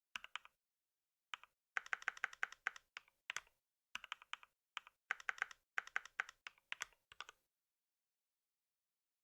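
Typing on a computer keyboard in short bursts of rapid key clicks separated by brief pauses, stopping about a second and a half before the end.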